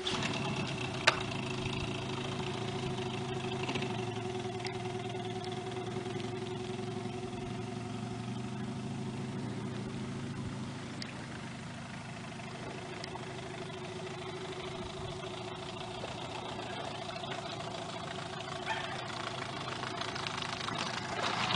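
Outboard motor running steadily at an even speed, with one sharp click about a second in.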